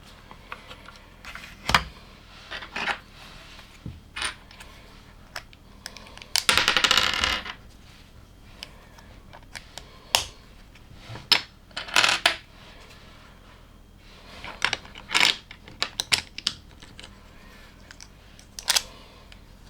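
Small plastic LEGO pieces clicking and clattering as they are handled and snapped together, in scattered sharp clicks. About six seconds in, there is a rattle of loose pieces lasting a second and a half.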